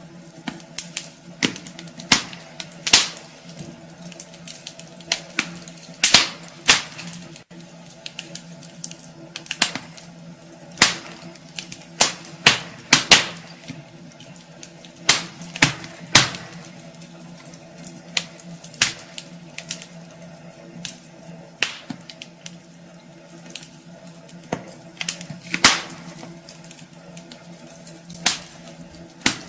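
Wood fire in a fireplace crackling, with irregular sharp pops and snaps, some single and some in quick clusters, over a faint steady hum.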